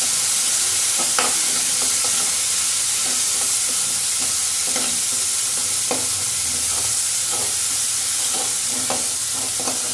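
Ground masala paste sizzling steadily in hot oil in a kadai while a metal spatula stirs and scrapes through it, with scattered clinks of the spatula on the pan. The masala is at the bhuna stage, being fried until the oil separates.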